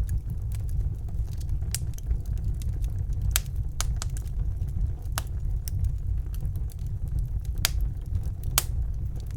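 Wood fire crackling in a fireplace: irregular sharp pops and snaps, a few loud ones among many small ticks, over a steady low rumble of the burning fire.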